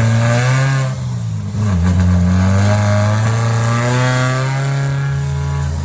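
Supercharged eighth-generation Honda Civic engine revving hard on a chassis dyno. It dips briefly a second or so in, then its pitch climbs steadily as it pulls.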